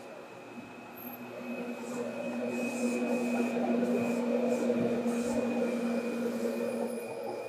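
Seibu 2000 series electric train running, heard from inside the car: a steady low hum with rumbling running noise that grows louder about two seconds in.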